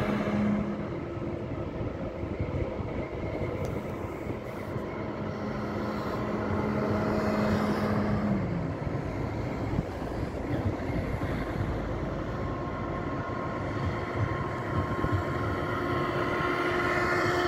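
Electric ICE high-speed train running beneath on the tracks: a steady rumble of wheels on rails with a steady hum from the drive. A low tone in the hum drops away about eight and a half seconds in, and higher steady tones come in toward the end.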